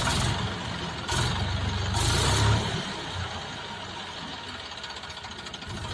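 HMT 4022 tractor's diesel engine running, with louder surges in the first two and a half seconds, then settling to a steady idle.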